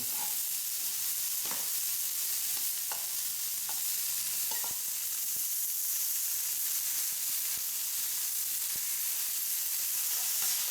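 Hamburger patty sizzling in a camp pan over a wood gas pellet stove: a steady, high-pitched frying hiss with a few small pops and crackles in the first half.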